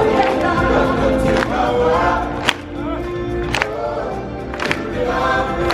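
Choir singing in chorus over music, with sharp percussion strikes about once a second.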